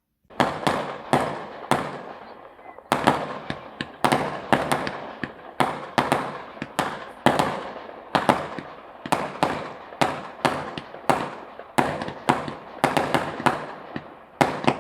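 Fireworks going off in a long, irregular run of sharp bangs, about one to two a second, each with a short fading tail.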